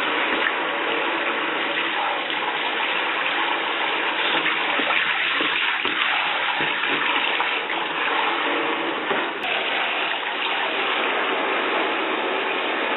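Shower head spraying water into a bathtub: a steady, loud rush of running water.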